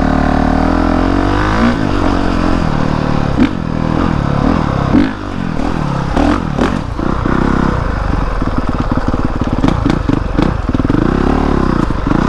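Honda CRF450R dirt bike's single-cylinder four-stroke engine revving up and down repeatedly as it is ridden, the pitch climbing and dropping with each twist and roll-off of the throttle, with a few sharp knocks from the bike over the terrain.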